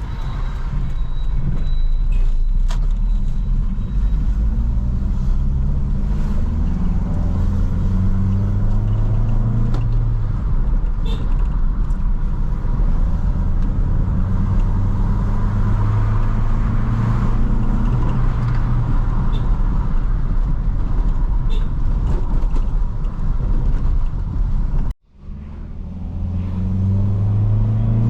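2004 Toyota Corolla's four-cylinder engine pulling under acceleration, its pitch climbing and dropping back several times as it goes up through the gears, over a steady road rumble. The sound cuts out abruptly for a moment near the end, then the engine pitch climbs again.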